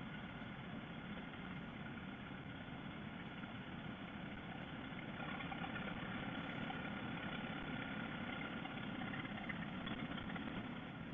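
Honda Shadow Aero VT750 V-twin running under way, with engine and road noise blended into a steady hum that grows a little louder about halfway through.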